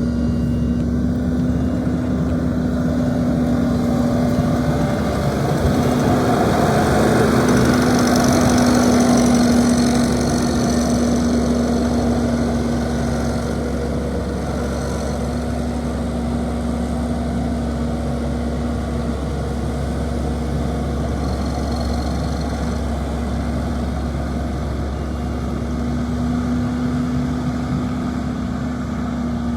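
A 2007 New Holland TV145 bi-directional tractor's diesel engine running steadily, growing louder for a few seconds about a quarter of the way in. A faint high whine comes and goes twice.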